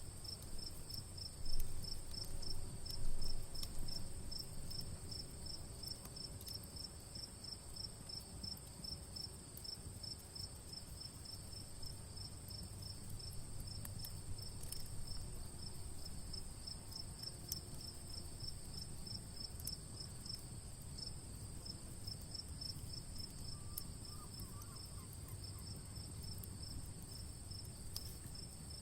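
Crickets chirping: a steady run of evenly spaced high chirps over a continuous higher trill, with a low rumble and scattered small crackles of a campfire beneath, and two louder pops in the first few seconds.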